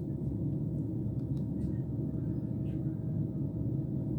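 Steady low rumble inside a c2c electric passenger train carriage, with a few faint clicks.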